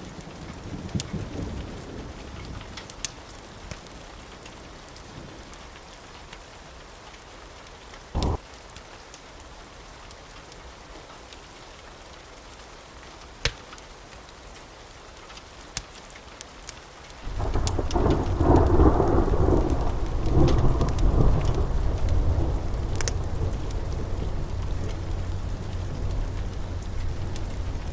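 Steady rain with a few sharp crackles from a wood fire. About seventeen seconds in, a loud rolling rumble of thunder sets in and keeps on rumbling.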